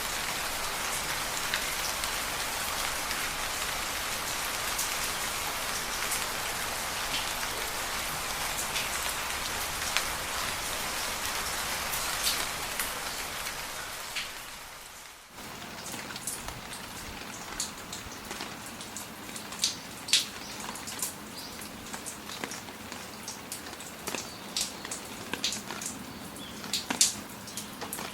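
Steady rain falling, fading out about halfway through. It gives way to lighter rain with scattered individual drops ticking and dripping.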